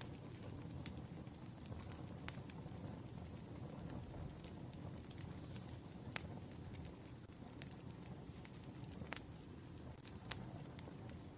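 Burning firewood crackling: a steady low rumble from the fire, with scattered sharp pops a second or a few seconds apart.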